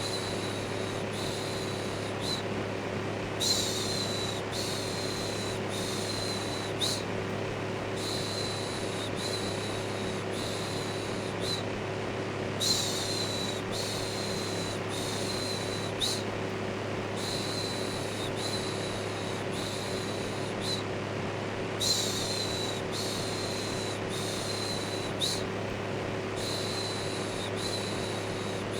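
Steady electric fan hum with a rhythmic human "shhh" shushing laid over it, the shushes coming about one a second in runs with short breaks between, as a looped baby-soothing white-noise track.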